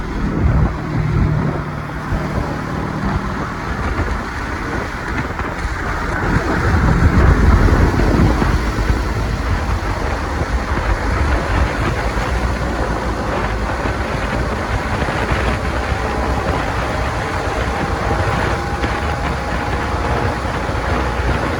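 Riding noise from a motorcycle on the road: steady engine and road noise with wind on the microphone, swelling louder about seven to eight seconds in.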